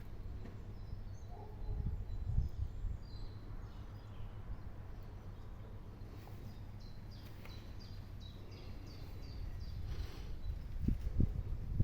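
Outdoor ambience: a small bird sings a run of about ten short, high, quick chirps from about six to ten seconds in, over a steady low rumble that swells in gusts near the start and again near the end.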